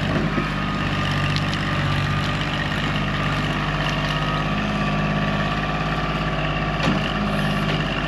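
Kubota tractor's diesel engine running steadily, with a few brief clicks over it and a slightly louder one near the end.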